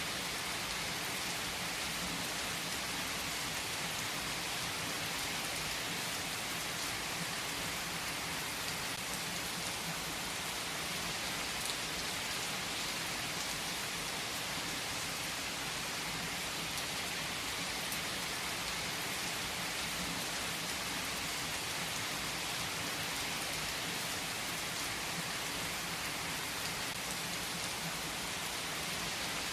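Steady rain falling on a surface, a continuous even hiss with faint scattered drop ticks.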